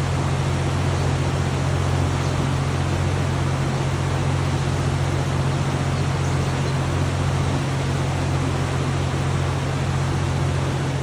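Floodwater in a swollen river rushing fast, a steady, unbroken noise heavy in the low end.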